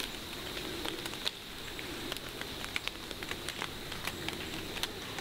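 Light rain pattering on dry leaf litter: many small irregular ticks over a steady hiss.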